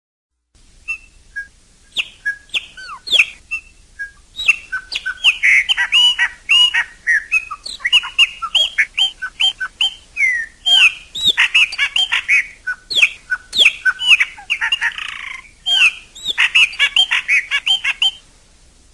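Chopi blackbird (pássaro-preto, graúna) singing: a long, varied run of loud, clear whistled notes and liquid phrases, many gliding up or down. The song starts about half a second in and breaks off near the end.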